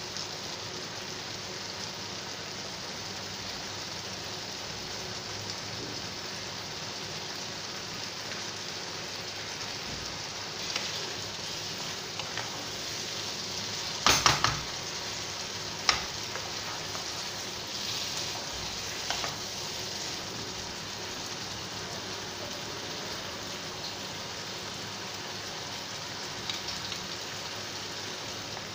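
Ridge gourd and potato in poppy-seed paste sizzling in mustard oil in a non-stick pan, with a steady hiss. A wooden spatula scrapes and knocks against the pan now and then, loudest about halfway through.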